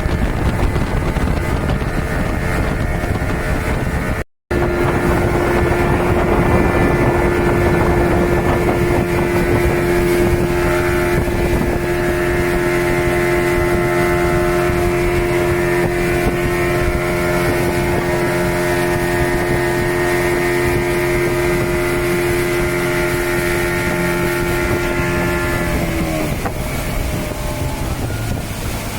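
Speedboat engine running steadily at speed, with wind buffeting the microphone. Near the end the engine note drops as the boat throttles back.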